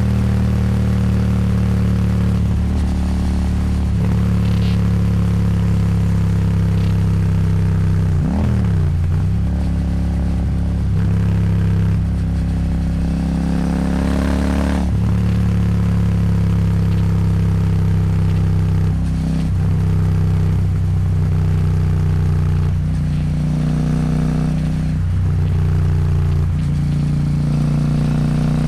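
Royal Enfield Super Meteor 650's parallel-twin engine running through an aftermarket slip-on exhaust under throttle on the move. Its pitch climbs and drops several times as the gears change, most clearly about 8 and 15 seconds in, with wind rush over it.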